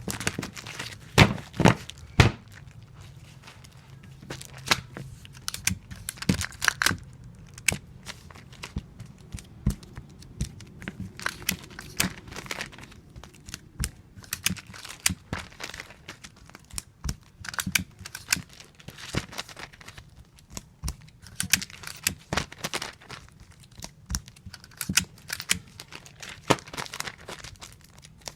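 Tape pulled off a tape dispenser and torn off, again and again in an irregular run of short rasps and sharp clicks, with crinkling as comic books are handled and taped.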